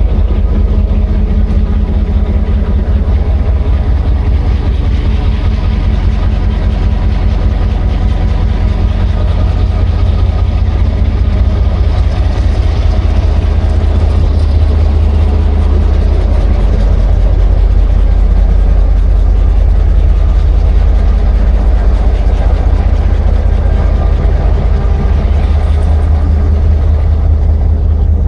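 Heavy engine running steadily, a loud low rumble with a steady hum above it.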